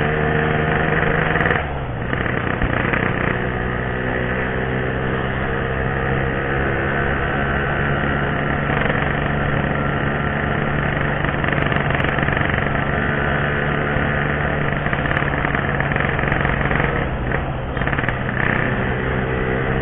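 Yamaha RX-King's 135 cc single-cylinder two-stroke engine running steadily with a rattly exhaust note; its pitch drops about a second and a half in, then holds even.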